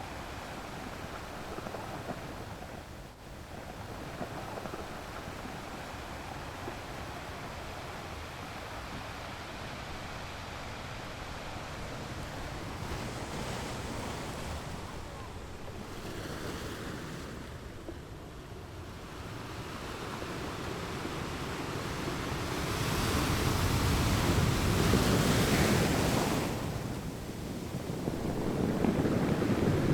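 Ocean waves breaking on rocks, with a steady wash of surf. A bigger wave builds and crashes loudly about three-quarters of the way through, and another surges near the end.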